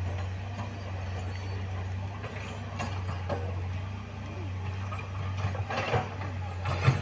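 Heavy diesel machinery running with a steady low hum, with scattered metallic clanks and knocks over it; the loudest knock comes near the end.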